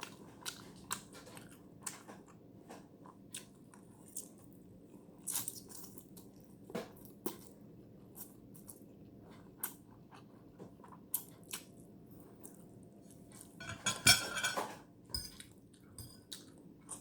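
Close-up chewing of Indomie instant noodles: soft, irregular mouth clicks and smacks, with a louder noisy stretch about fourteen seconds in.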